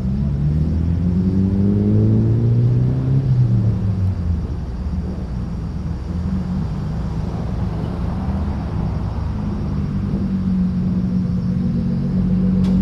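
Car engines pulling away: one rises in pitch as it accelerates over the first few seconds, then a steady low engine note carries on under a general rumble of traffic.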